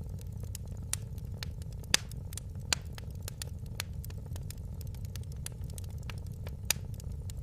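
Wood fire crackling in a fireplace: irregular sharp snaps and pops over a steady low rumble, with a few louder pops, the loudest about two seconds in and another near the end.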